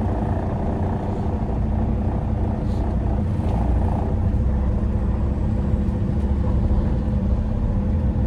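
Semi truck's diesel engine running steadily at low revs, heard from inside the cab.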